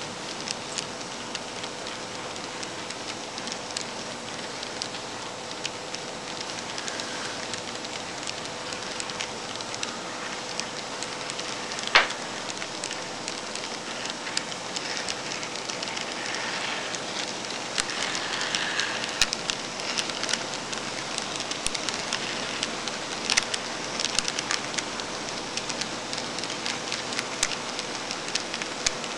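N scale model train running on its track: a steady hiss of small wheels with many irregular light clicks, a faint steady hum beneath, and one sharper click about twelve seconds in.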